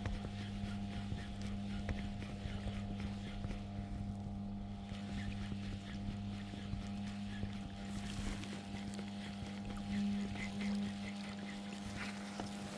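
A motor running steadily, a low even hum that starts and stops abruptly, with a few faint splashes or clicks over it.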